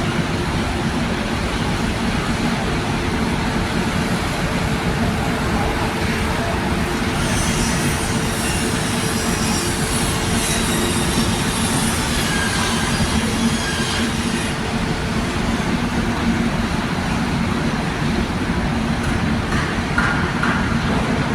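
Steady, loud industrial machinery rumble with a low hum, and high-pitched metallic squealing from about 7 to 15 seconds in.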